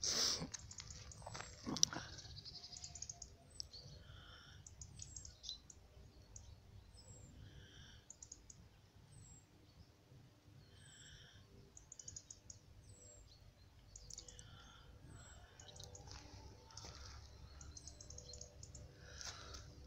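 Small birds calling, short chirps repeated every second or two over faint outdoor background noise. A brief rustle right at the start and a sharp click just under two seconds in are the loudest sounds.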